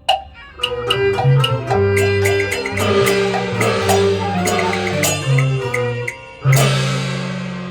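Cantonese opera instrumental accompaniment: sustained melody instruments over a run of sharp, quick percussion strikes, with one loud struck hit about six and a half seconds in that rings on and fades.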